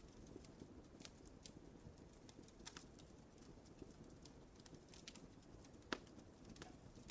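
Wood fire burning in a fireplace: a soft low rumble with scattered sharp crackles and pops, the loudest pop about six seconds in.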